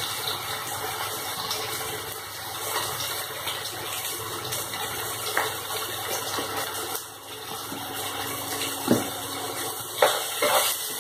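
Ginger, green chilli and ground spice paste sizzling steadily in hot oil in a pan. A few knocks of a wooden spatula come near the end as the paste is stirred.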